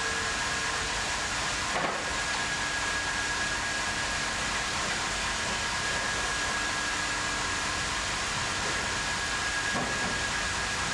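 AKE industrial sawmill bandsaw line running steadily: an even mechanical hiss with a steady high whine, and a brief knock about two seconds in and another near the end.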